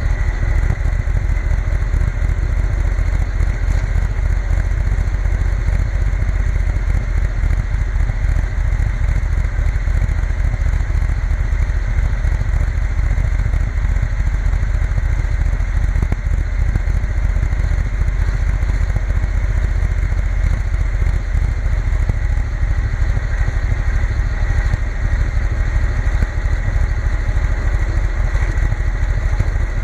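Triumph Bonneville T120 motorcycle being ridden at a steady pace, the engine running evenly under a dense low rumble.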